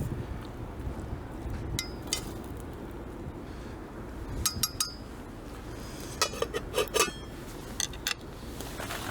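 Dishes and utensils clinking: a few scattered light knocks and taps, some ringing briefly, in small clusters.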